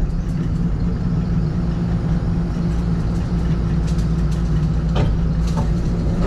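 Heavy vehicle's diesel engine running steadily at an even low speed, with a few faint clicks about four to five seconds in.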